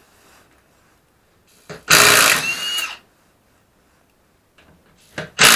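Impact wrench running in a burst of about a second, its whine rising and then holding, to undo the wheel nuts; a short blip comes just before it and another burst starts near the end.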